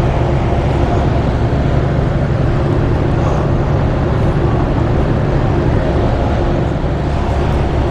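Triumph Tiger 800 motorcycle's three-cylinder engine running steadily: a low hum with a broad rush of noise over it.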